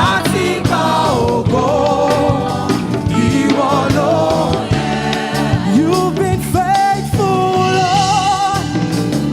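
Live gospel praise-and-worship singing: a lead voice holding long notes with vibrato, over a band accompaniment.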